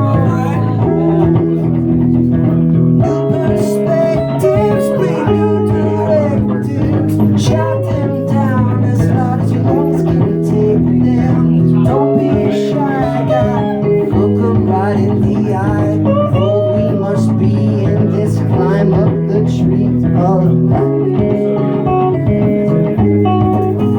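Live instrumental music: an electric guitar, a Fender Jazzmaster, plays a melody with gliding notes over a repeating guitar and bass pattern built up on a loop station.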